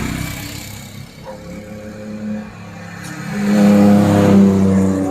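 A motor vehicle engine running steadily. It swells louder about three seconds in.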